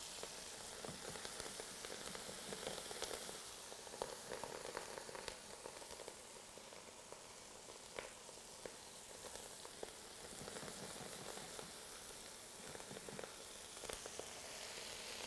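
Bacon fat, onions and garlic sizzling steadily in a stainless pot as handfuls of raw kale and mustard greens are dropped in to wilt, with scattered small pops and ticks.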